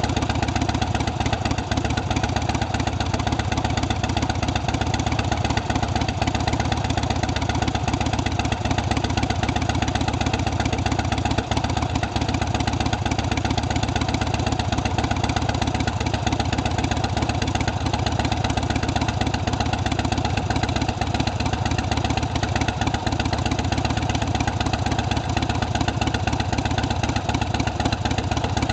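Big Dog K9 chopper's carbureted 117 cubic inch S&S V-twin idling steadily through its Vance & Hines exhaust.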